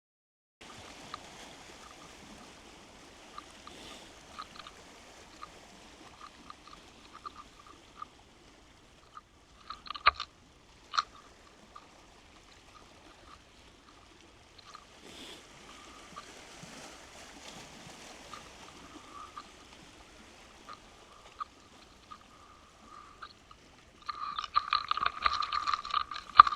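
Muffled water noise through an underwater camera housing: a faint steady hiss with scattered light clicks, two sharper knocks about ten seconds in, and a dense, louder rattle of rapid clicks over the last couple of seconds.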